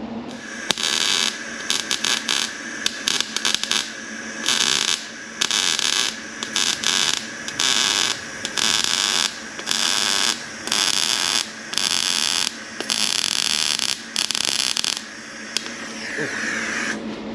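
Welding on a steel chassis rail: the welder's arc crackles in a long run of short stop-start bursts, each up to about a second long, stopping a couple of seconds before the end. Stitch welding to close up a small rust hole.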